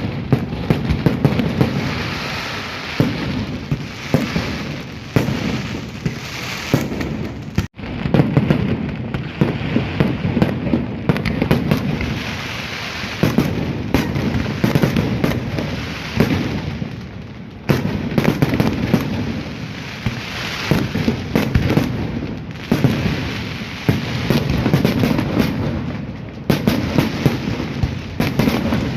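Fireworks display: a dense, continuous barrage of bangs and crackling that swells and eases every few seconds, breaking off for an instant about eight seconds in.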